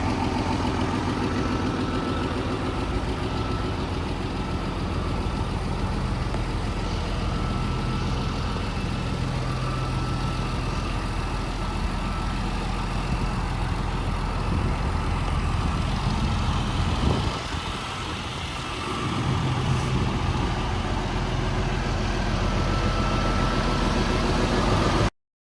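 Scania G410 truck's 13-litre six-cylinder diesel engine idling steadily, with a brief sudden change and dip in level about 17 seconds in before settling back to idle.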